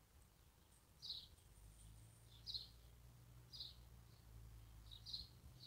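Faint outdoor birdsong: one small bird's short, high chirps, repeated roughly once a second with a quick double chirp near the end, over a faint low hum.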